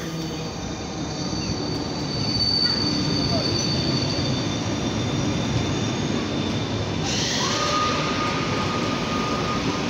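Newag Griffin EU160 electric locomotive and its Intercity coaches rolling into the platform as the train slows to stop, the wheels rumbling and a high thin squeal from the wheels and brakes. About seven seconds in, a steadier squeal tone and a brighter hiss join in.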